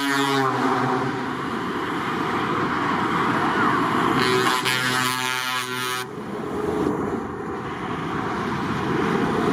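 Truck air horn sounding, a blast that ends about half a second in and a second one of about two seconds a little after midway, over a steady noise of passing truck traffic.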